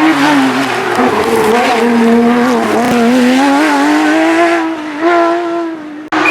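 Porsche GT3 rally car's flat-six engine at high revs, its pitch dropping about two seconds in and then climbing steadily again as it pulls hard through the stage. The sound cuts off abruptly near the end.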